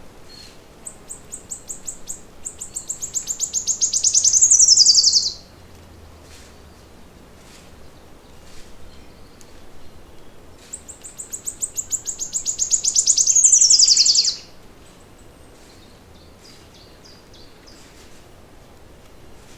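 A songbird singing twice, each song about four seconds long. Each song is a rapid trill of high notes that speeds up and grows louder, then ends in a quick downward sweep. Faint chirps fill the gaps between the songs.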